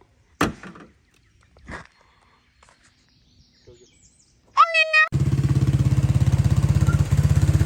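A small off-road engine, likely the barn-find Kawasaki three-wheeler's, cuts in abruptly near the end and runs steadily with an even pulse. Before it there are only a few faint knocks and a short call.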